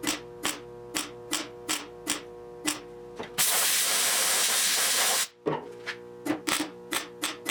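Background music with a steady beat. About three and a half seconds in, a welder on the sheet-steel repair panel gives one loud hissing burst lasting just under two seconds, then stops abruptly.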